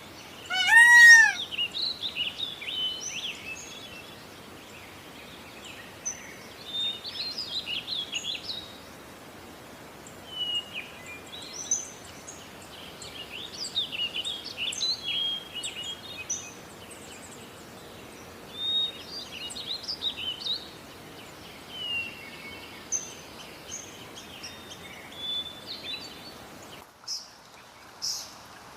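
A mixed chorus of small birds chirping and twittering in short, scattered bursts over a steady background hiss. Right at the start a louder bird gives a single arched call with a clear ringing tone.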